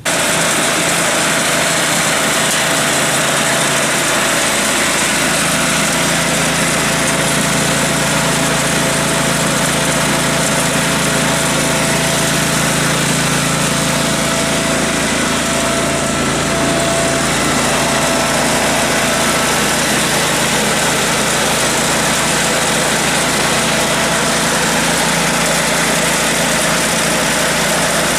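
An engine running steadily at an unchanging speed, with a constant hum.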